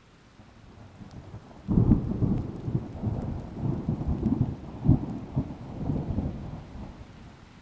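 Thunder rolling over rain: a faint low rumble swells, turns suddenly loud about two seconds in, rolls on in uneven surges and dies away near the end.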